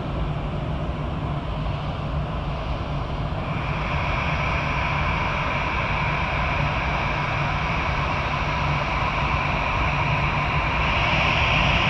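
Jet airliner engines running, growing slowly louder, with a high-pitched whine joining about three seconds in and getting stronger near the end.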